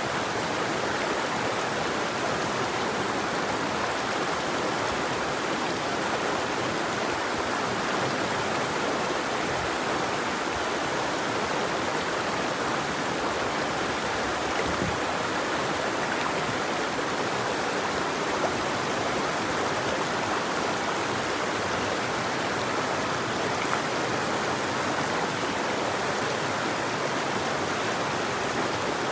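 River water flowing and rushing steadily over rocks, an even, unbroken wash of water noise with a couple of brief small splashes.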